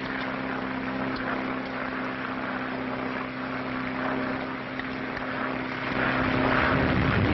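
Propeller airplane engines droning steadily under a haze of noise, which grows louder about six seconds in.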